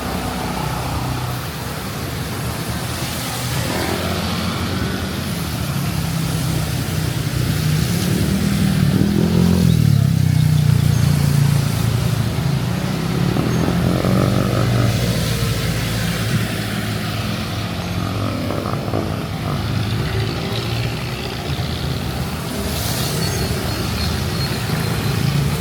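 Motor vehicles running past on a wet road in the rain, with an engine hum that swells loudest about a third of the way in. Under it runs a constant hiss of rain and tyres on wet pavement.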